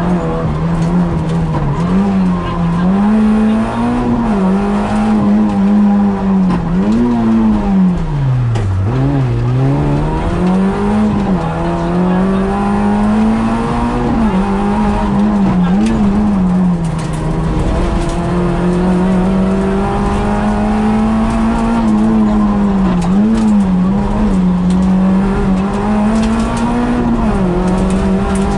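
Peugeot 106 rally car's four-cylinder engine heard from inside the cabin, revving up and down repeatedly through the gears at racing pace. About eight seconds in, the revs drop low, then climb again.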